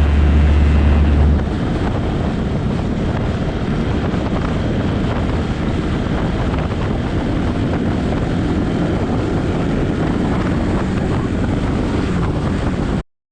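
Steady wind rush and road noise of a motorcycle ride, with no clear engine note; it cuts off suddenly near the end. A music track's last low note stops about a second in.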